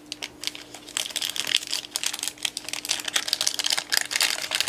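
Packaging crinkling and rustling in irregular crackles as it is handled to get at a watercolor palette, starting up about a second in and running thickly after that.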